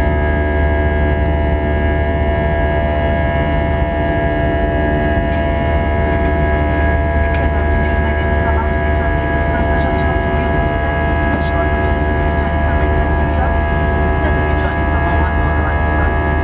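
Airbus A320 jet engines heard from inside the passenger cabin: a steady drone with a deep hum and many steady whining tones that hold their pitch throughout.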